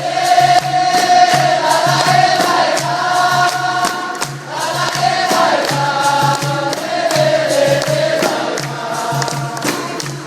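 Capoeira roda music: a group of voices singing a chorus together, with an even, repeating beat of struck percussion of the kind a berimbau and pandeiro give.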